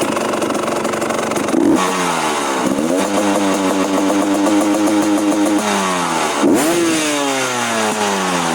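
Motorcycle engine through an aftermarket full-system exhaust, idling and then revved: a quick blip, a rev held high for about three seconds, then another short blip, the pitch falling back after each.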